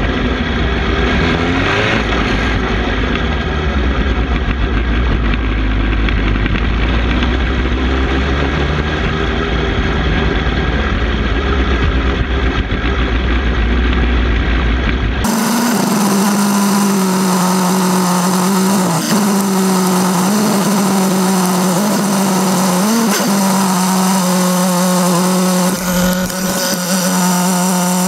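Suzuki GSX-R750 sportbike's inline-four engine running under way, with heavy wind rumble on the bike-mounted microphone. About halfway through the sound changes abruptly to a steadier engine note without the rumble, with a few small throttle rises.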